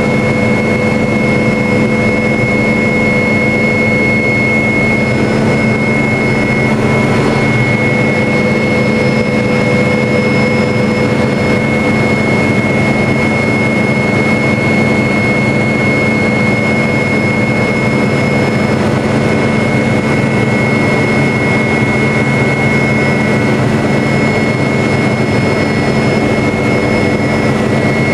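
MD500 helicopter in flight: steady whine of its turboshaft engine over the dense drone of the rotor and transmission, unchanging throughout.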